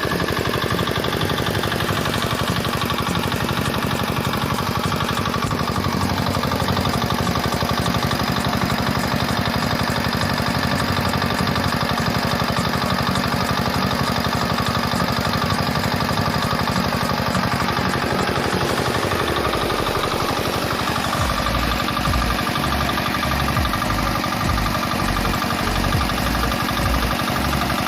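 Small Chinese 4 hp single-cylinder diesel engine running steadily with a fast, even knock of its firing strokes; its low beat changes about twenty seconds in.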